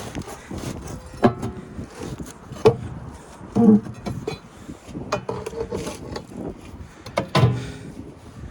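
About five separate knocks at irregular spacing, each followed by a short ringing tone.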